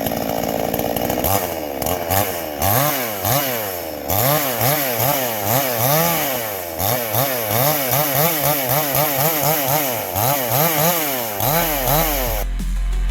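Chainsaw shaving high spots off the face of a log, running steadily at first, then revving up and down over and over, its pitch rising and falling about once a second. Near the end it gives way to electronic music.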